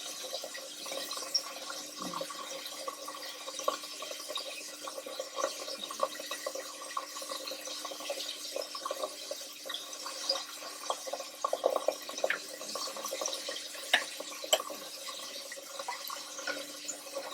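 Chicken pieces frying in a pot of oil: a steady sizzling hiss with many small scattered crackles, over a low steady hum.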